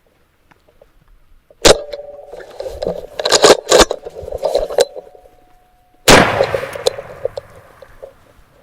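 A shotgun shot about six seconds in, a single loud blast that rings out and fades over a couple of seconds. Before it come a sharp crack and a run of loud, rough sounds.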